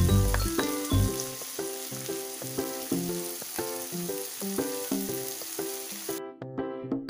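Sliced onion and tomato sizzling in hot oil in a frying pan, a steady hiss that cuts off suddenly near the end. Background music plays throughout.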